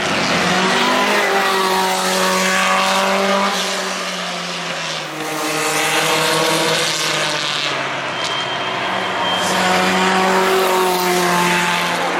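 Historic Formula 1 cars' Cosworth DFV V8 engines running at speed past the track, their note shifting in pitch. The sound eases about five seconds in and builds again toward the end.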